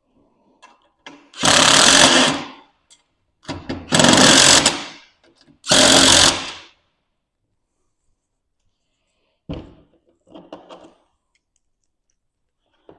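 Handheld power driver running bolts down in three bursts of about a second each, then two short, quieter bursts.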